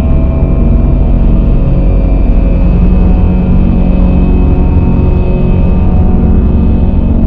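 Dark ambient drone music: a loud, dense low rumble with several sustained tones held over it, unchanging and without any beat.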